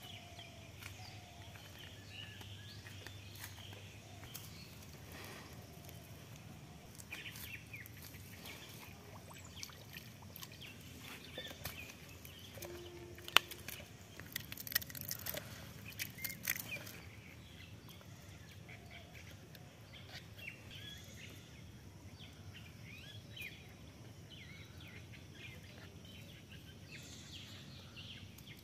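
Quiet outdoor ambience with birds chirping sporadically. About 13 seconds in there is a single sharp click, followed by a few seconds of scratchy handling knocks.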